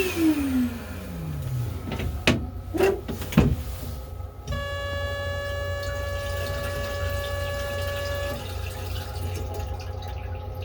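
M3 railcar toilet flush running down: a motor whine falls in pitch and fades, a few sharp clunks follow about two to three and a half seconds in, then a steady hum of several tones lasts about four seconds and cuts off suddenly. A steady low rumble runs underneath.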